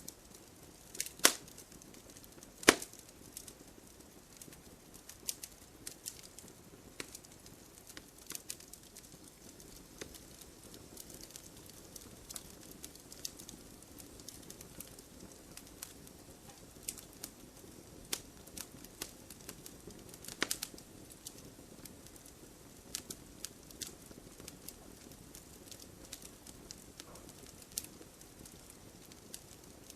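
Firewood burning: irregular sharp crackles and pops over a soft low hiss, with the two loudest pops in the first three seconds and another cluster about two-thirds of the way through.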